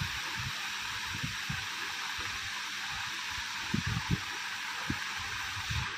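Steady hiss, with a few short low thumps about four seconds in and again near the end.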